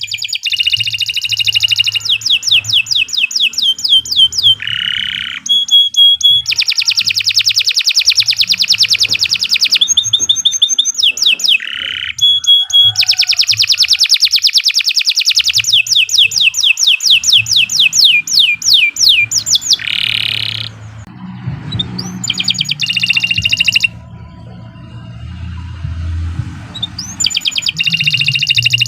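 Domestic canary singing a long, continuous song of rapid trills and rolls, made of fast repeated notes and quick falling whistles, with a short quieter break about two-thirds of the way through. A faint low hum runs underneath.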